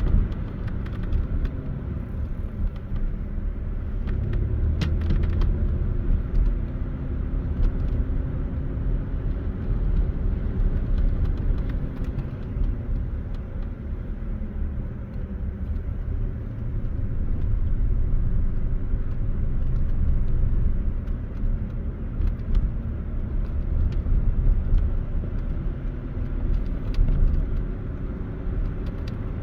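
Engine and road noise heard from inside a moving car: a steady low rumble with an engine hum that drifts slowly up and down in pitch.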